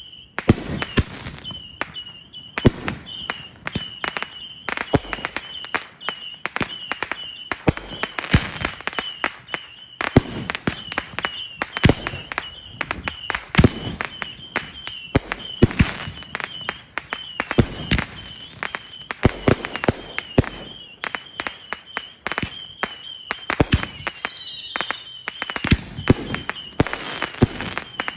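Fireworks going off: a rapid, irregular run of sharp bangs and pops through the whole stretch, with a short falling whistle about 24 seconds in.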